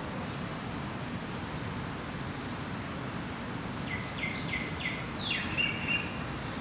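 Steady low rumble of city background noise. About four seconds in, a magpie-lark calls: four quick short notes, then a downward-sliding note and a brief warbled one.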